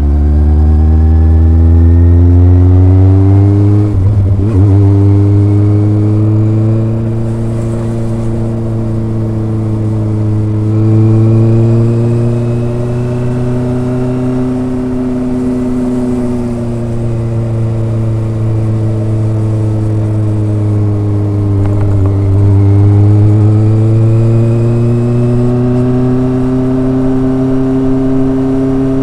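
Kawasaki ZRX inline four-cylinder motorcycle exhaust under way, with a smooth, gentle note. Revs climb at first, break for a gear change about four seconds in, fall off slowly under a closed throttle, then climb again near the end.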